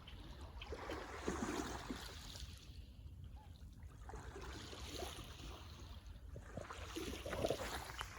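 Small waves on Lake Ontario lapping at the shore, washing in and fading away about every three seconds.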